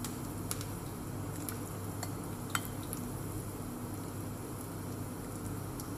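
Cabbage and tuna batter frying gently in oil in a skillet, a soft steady sizzle over a low hum. A few light clicks of a spatula against the pan come in the first three seconds.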